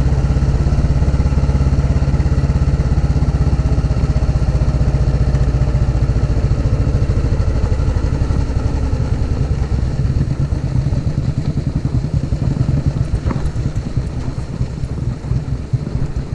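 Royal Enfield motorcycle engine running with a fast, steady beat. About ten seconds in, the low end drops away and the beats become more separate and uneven.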